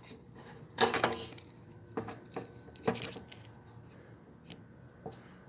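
A few scattered light knocks and clicks, a small cluster about a second in and single ones near two, three and five seconds, as parts of a partly disassembled motorcycle are handled, over a faint steady hum.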